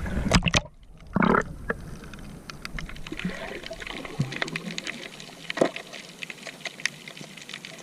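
Water splashing and trickling, with scattered light clicks and knocks and one louder splash about a second in.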